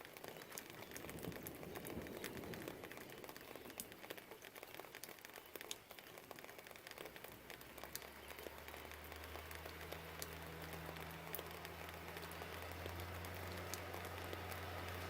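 Steady light rain with scattered drips and patters. About halfway through, a low, steady engine rumble of distant traffic comes in and grows slowly louder.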